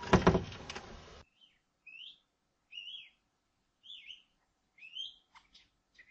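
Budgerigar chirping: a series of short rising chirps about once a second, then a few quick short calls near the end. A loud harsh noise fills the first second and stops abruptly.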